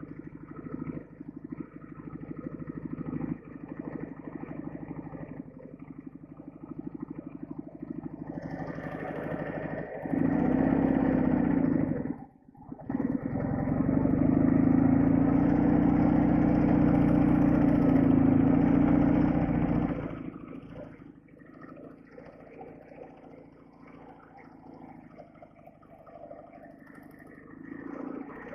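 Soviet flat-twin sidecar motorcycle engine running, quiet at first, then opening up and running loud and steady with a brief sharp dip about twelve seconds in, before easing back to a lower drone for the last several seconds.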